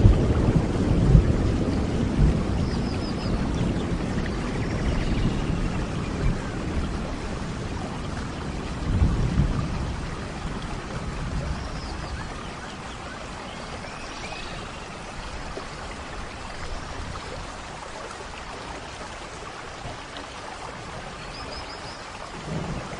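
Steady rain with rolling thunder: a deep rumble at the start and another about nine seconds in, then rain alone, quieter.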